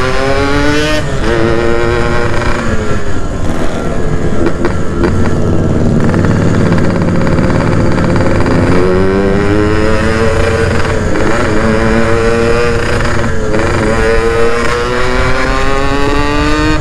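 Yamaha RX-King two-stroke motorcycle engine pulling while riding: its pitch climbs, drops at a gear change, and climbs again, several times over, with a stretch of lower, rougher running in the first half.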